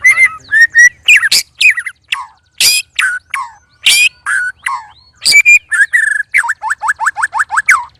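White-rumped shamas (murai batu) singing loudly, a fast, varied song of gliding whistles mixed with harsh notes. Near the end comes a rapid run of falling notes, about eight a second, that stops suddenly.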